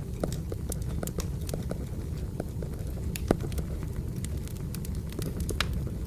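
Firewood burning: a steady low rumble with frequent small crackles and pops, and one sharper pop a little past three seconds in.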